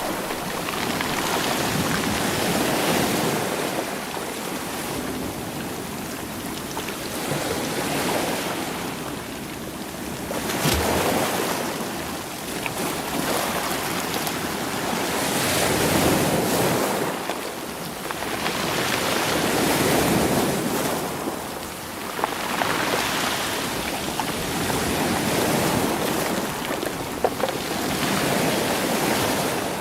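Sea waves washing in and out over rolling stones, surging every few seconds, with a few sharp clicks of stones knocking together.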